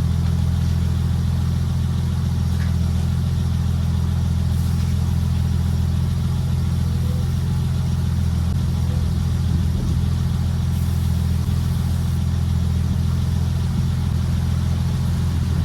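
BMW E30's M20 straight-six engine running steadily at a constant pitch.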